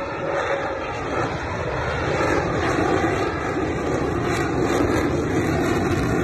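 Jet noise of an F-35A fighter's afterburning turbofan engine as the jet flies by: a loud, rushing roar that swells slightly about two seconds in.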